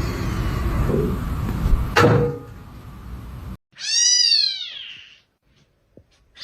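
A cat meows once a little past halfway: one long call that rises and then falls in pitch. Before it there is a noisy rumble with a sharp knock about two seconds in, which cuts off suddenly.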